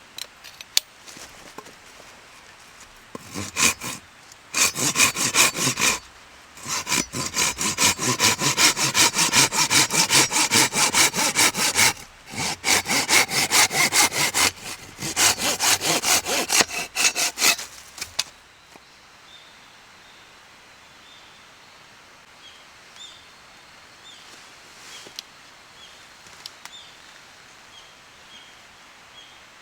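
Hand saw cutting through wood in quick back-and-forth strokes, in several runs with brief pauses, stopping about 18 seconds in.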